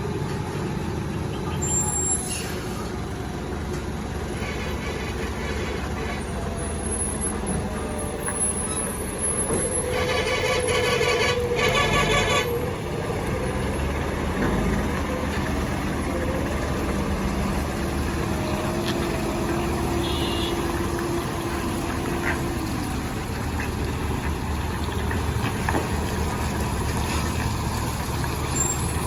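Heavy truck and bus engines running steadily with road noise in mountain traffic, with a louder burst about ten seconds in.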